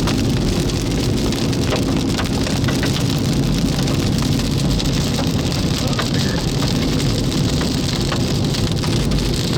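Heavy rain with small hailstones hitting a moving Jeep, heard from inside the cabin: a steady hiss with scattered sharp ticks of stones striking the body and glass, over the low drone of the engine and tyres.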